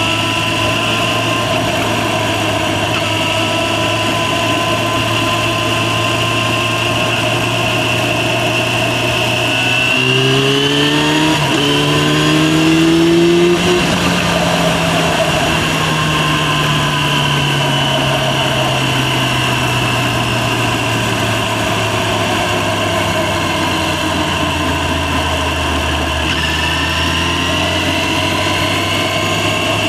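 Yamaha FZ6's inline-four engine running at a steady cruise. About a third of the way in it accelerates, rising in pitch with a short break for a gear change, then slowly falls in pitch as the bike slows. Near the end the pitch steps up sharply.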